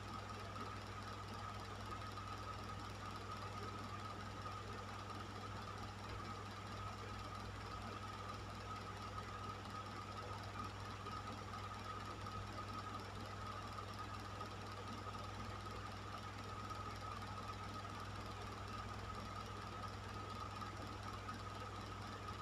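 Electric fan running steadily: a low motor hum and a thin, steady higher tone over an even rush of air, unchanging throughout.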